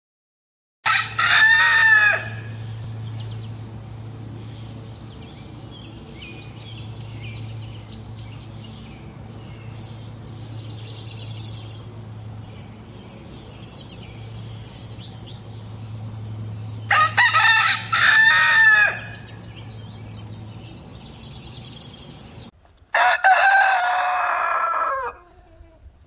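Roosters crowing three times: once about a second in, again past the middle, and a third crow with a different voice near the end. In between there are faint chirps of small birds over a steady low hum.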